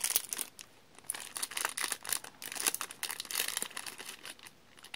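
Snack wrapper of a butter-cream sandwich biscuit crinkling and tearing as it is opened, in quick irregular rustles that die away near the end.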